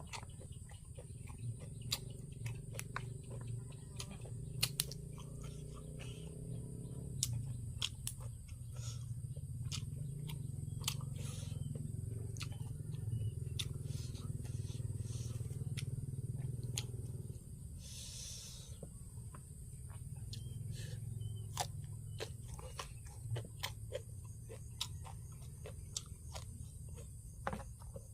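Close-up eating sounds: chewing with frequent short mouth clicks and smacks, over a steady low hum.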